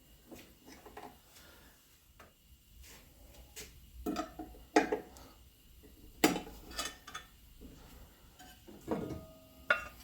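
Scattered metallic clinks and knocks from an aluminum seat pan and small tools being handled. A few sharper knocks stand out, the last one near the end with a short ring.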